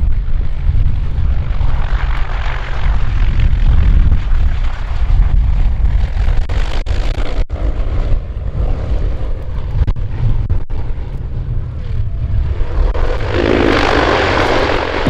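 Aircraft engines running with a heavy low rumble. Music comes in near the end.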